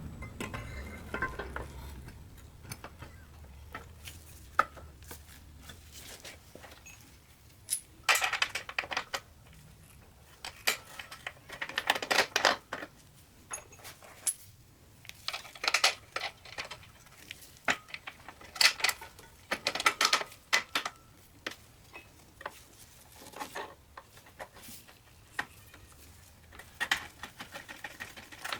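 Metal parts and hand tools clinking and clattering in short bursts every few seconds, as hardware is handled and fitted. A low hum fades out in the first two seconds.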